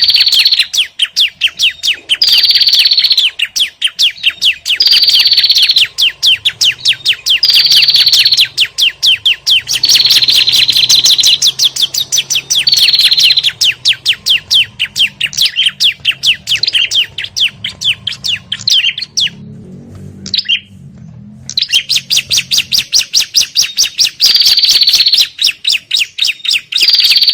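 Recorded agitated chatter of prenjak and ciblek (prinias), played as a lure to call in small birds: rapid ticking notes, many a second, in repeated phrases about two seconds long, each starting with a higher note. The chatter drops away briefly about two thirds of the way through.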